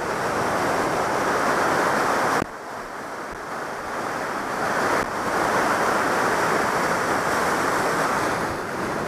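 Glacial river and waterfall rushing, a loud steady noise. It drops suddenly about two and a half seconds in and comes back to full strength around five seconds.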